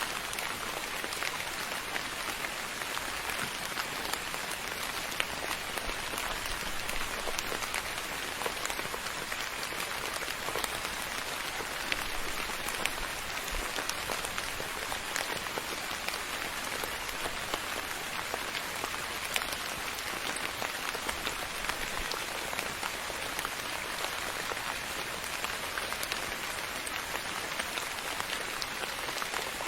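Steady rain falling, a continuous even hiss dotted with many fine drop ticks.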